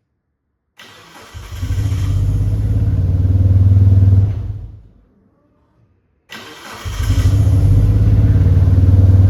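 Mitsubishi Lancer Evolution IV's turbocharged 4G63 engine is started twice. Each time it cranks, catches and runs for about three seconds, then dies away. Its cutting out after starting is the fault in question.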